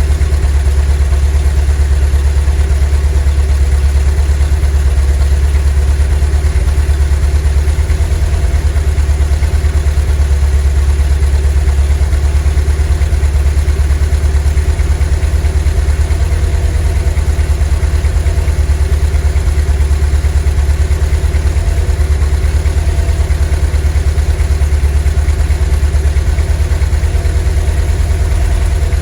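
VW T3 bus's 2.1-litre WBX water-cooled flat-four engine idling steadily, with an even, deep rumble.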